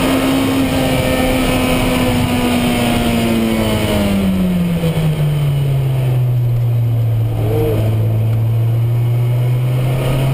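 In-cabin sound of a Lotus Exige Cup 260's supercharged 1.8-litre four-cylinder engine at speed. It holds high revs, and about four seconds in the revs drop smoothly to about half. They stay low and steady through a corner, then begin to climb again near the end.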